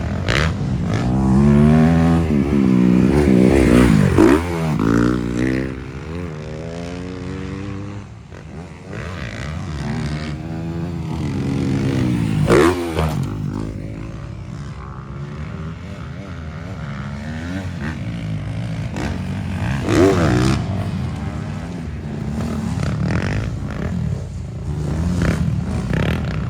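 Motocross motorcycles running on a dirt track, their engine pitch repeatedly rising and falling as riders rev up and pass. The engines are loudest in the first five seconds, with further brief peaks about halfway and three-quarters through.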